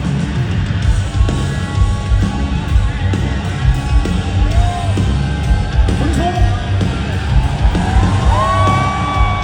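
Live rock band playing an instrumental passage in a concert hall, with loud drums and bass, and audience shouts and whoops rising over it in the second half.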